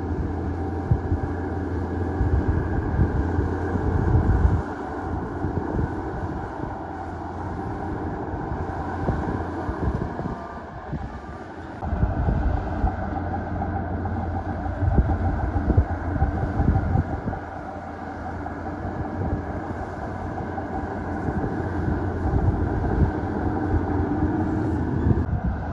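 Heavy diesel earthmoving machinery working: a steady, loud engine note with clattering. It eases off briefly about ten seconds in and picks up again about two seconds later.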